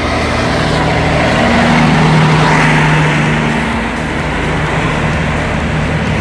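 Heavy tractor-trailer truck engine running, growing slightly louder over the first two seconds and then holding steady.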